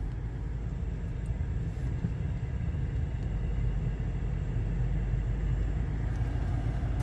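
Steady low rumble of a car driving, with no distinct events.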